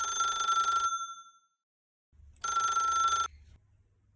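Telephone ringing: a steady trilling ring that stops about a second in and sounds again once, briefly, a little after two seconds.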